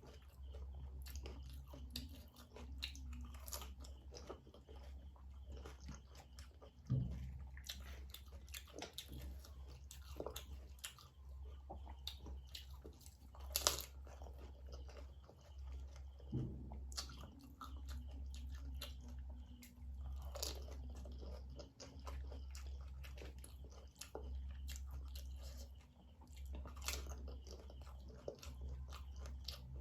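A person biting and chewing crisp panipuri (golgappa) shells, with many small crunches and a few louder bites, over a steady low hum.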